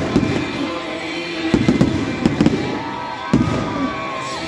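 Aerial fireworks bursting overhead, a series of sharp bangs and crackles a second or so apart, with music playing underneath.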